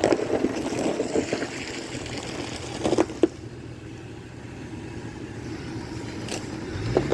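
Four-wheel-drive vehicle's engine running steadily at low speed, with crackling noise in the first couple of seconds and two short knocks about three seconds in.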